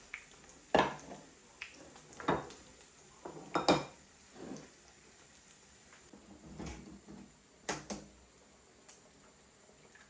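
Dishes and cutlery being handled: a run of separate clinks and knocks, about seven in all, with the loudest about a second in.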